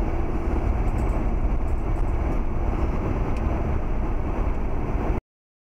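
Steady road and engine rumble of a car driving, heard from inside, with no break until it cuts off suddenly about five seconds in.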